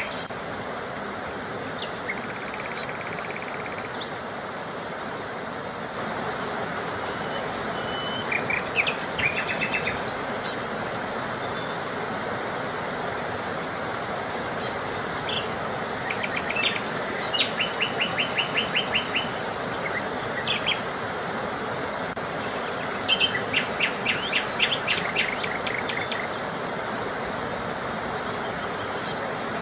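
Songbirds chirping and trilling on and off, several short calls and rapid trills, over a steady background hiss.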